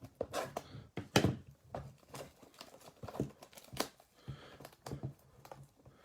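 Plastic shrink-wrap being torn and crinkled off a sealed trading-card blaster box, in irregular crackles and snaps, the sharpest about a second in and again near four seconds.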